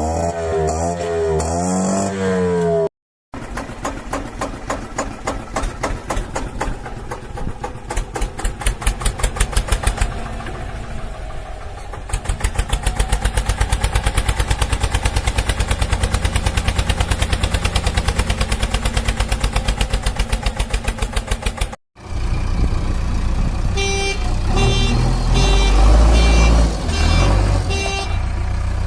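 Battery-operated toy vehicles' electronic sound effects. A wavering siren-like tone is followed by a long stretch of fast, even pulsing, then repeated horn beeps. Two abrupt cuts separate the three parts.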